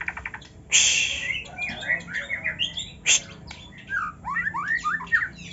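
Songbird singing a fast, varied song of chirps and warbled phrases, broken by a loud harsh rasping note about a second in and a shorter one about three seconds in.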